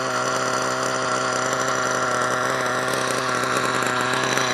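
HPI 4.1 nitro engine in an RC truck idling steadily. It is running rich and not yet warmed up.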